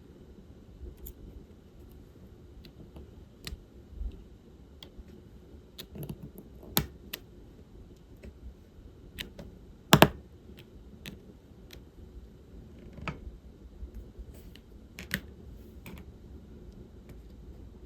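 Diamond painting work: small plastic clicks and taps as resin drills are picked up and pressed onto the canvas. The clicks come irregularly, with one louder double tap about ten seconds in.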